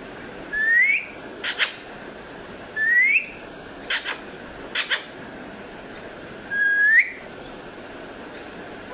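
Green parrot whistling: three short rising whistles a couple of seconds apart, with quick sharp chirps or clicks between them.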